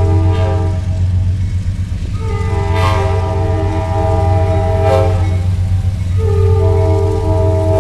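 Amtrak Silver Star locomotive horn sounding: a blast ending about a second in, a long blast of about three seconds in the middle, and another starting near the end. A steady low rumble from the passing train runs under it.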